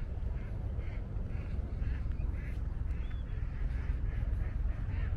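A bird calling in a quick series of short calls, about two a second, over a steady low rumble.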